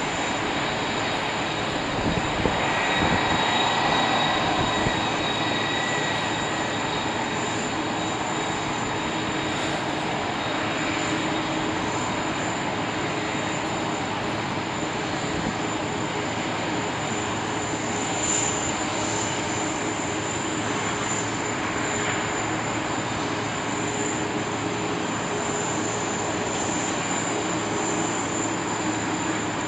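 Jet engines of an Airbus A380 running steadily: a continuous rushing noise with high whining tones, swelling slightly a few seconds in.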